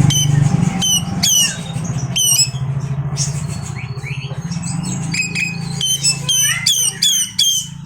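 Oriental magpie-robin (kacer) singing a rapid, varied run of short, sharp whistled notes that slide down in pitch, several a second, with harsher squawky calls mixed in. A steady low hum runs underneath.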